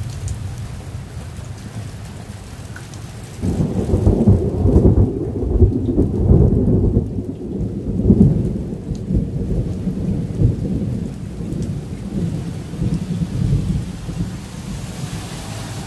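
Thunder during a storm: a heavy rumble breaks out suddenly about three and a half seconds in, rolls loudly for several seconds and then dies down to a lower grumble, with rain falling throughout.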